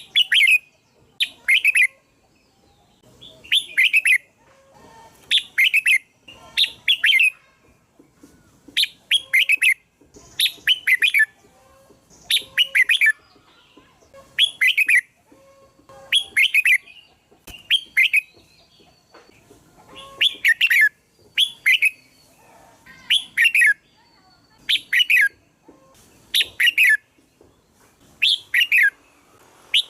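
Red-whiskered bulbul singing: short, bright whistled phrases, many falling in pitch, repeated every one to two seconds.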